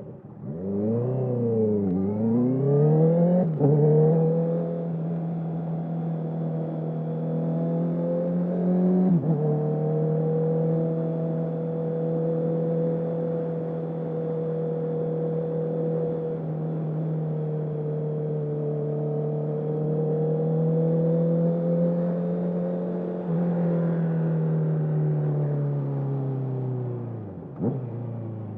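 Honda CB650R's inline-four through a full Akrapovic exhaust with no dB killer, revving up hard through several quick upshifts in the first few seconds. It then holds a steady cruise, with one more upshift about nine seconds in, and the revs fall away near the end as it slows.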